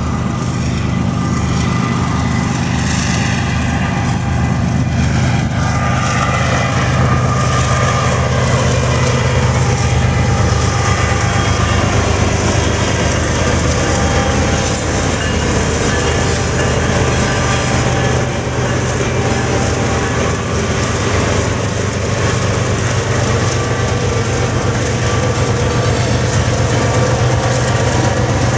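BNSF and Norfolk Southern diesel-electric freight locomotives rolling slowly past close by, their engines running with a steady low drone. A few fainter whining tones fall in pitch during the first dozen seconds.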